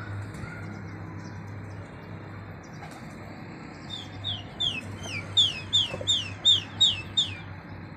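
A bird calling in a quick run of short, falling high notes, about three a second, starting about halfway through, over a steady low background hum.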